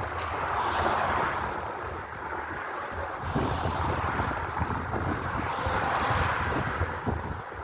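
Wind buffeting the microphone while riding: a rushing, fluttering noise that swells about a second in, eases briefly, then swells again.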